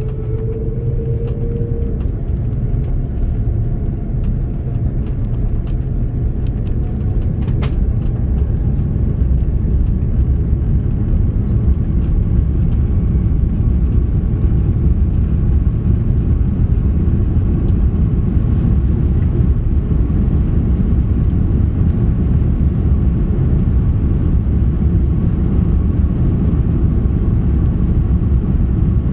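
Cabin noise of an Airbus A330-300 at full takeoff power, heard from a rear economy window seat: a loud, steady, deep rumble of the engines and rushing air. It builds over roughly the first ten seconds, then holds.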